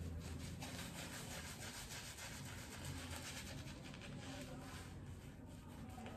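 RazoRock tricolore shaving brush swishing and rubbing lather over a two-and-a-half-day stubble in repeated soft strokes, whipping shaving soap into lather on the face.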